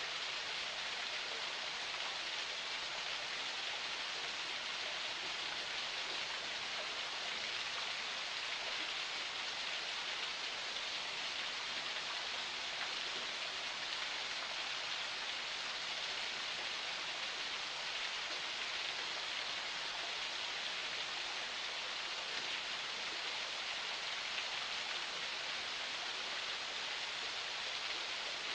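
Small forest spring flowing, a steady even rush of running water.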